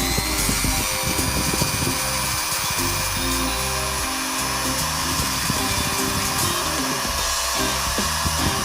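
Electric drill motor running steadily at speed with a high whine, over background music.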